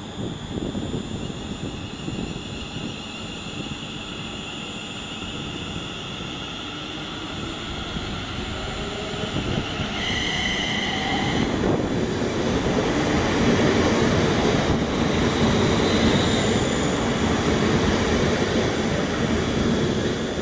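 A train moving through the station on the rails, with steady high electric whines over the rumble. It grows louder from about halfway. A short high-pitched sound comes about halfway in.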